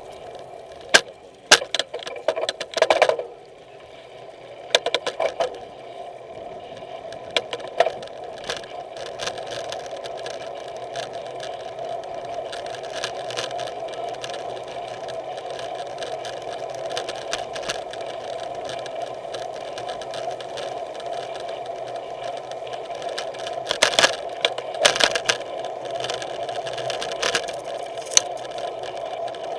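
Bicycle rolling downhill: a steady buzzing whir with bursts of sharp rattles and clacks, in clusters near the start and again near the end.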